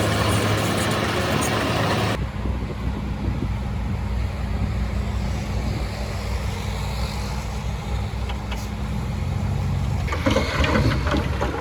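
Heavy diesel construction machine engine running with a steady low hum; the sound changes abruptly about two seconds in, and a burst of clattering starts near the end.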